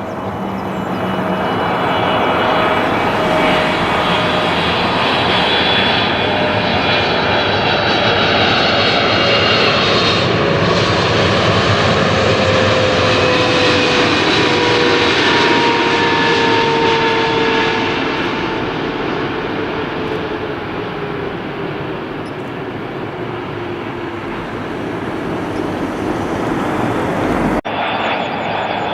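Airliner's engines as the aircraft passes close by, a loud rushing noise with whining tones that slowly fall in pitch. The noise eases off after about 18 seconds, and a different aircraft sound cuts in near the end.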